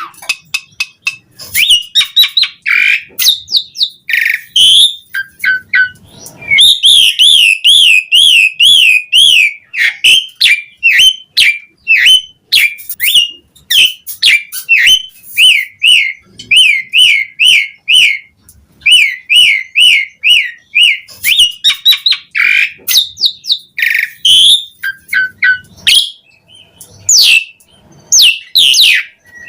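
Asian pied starling (jalak suren) in full, continuous song: a varied stream of whistles, clicks, harsh notes and long runs of fast, wavering warbles. This is its gacor song with 'isian', phrases borrowed from other birds.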